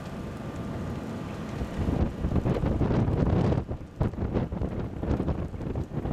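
Gusty wind buffeting the microphone, a rough rumbling rush that picks up about two seconds in and keeps surging.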